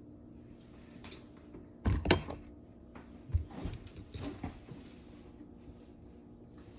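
Kitchen handling noises: a cluster of knocks and clatters about two seconds in, then a few lighter knocks, over a faint steady hum.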